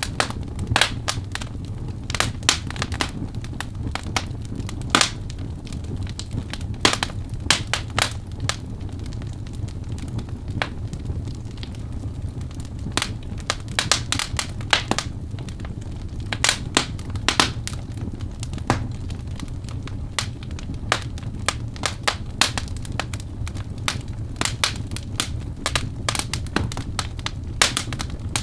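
Wood fire burning in a fireplace: irregular sharp crackles and pops of the logs over a steady low rush of the flames.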